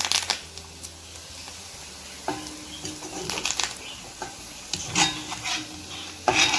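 Spoon scraping and clinking against the frying pan as the crisp dry-fried chicken is lifted out onto a plate, with scattered knocks, the loudest near the end.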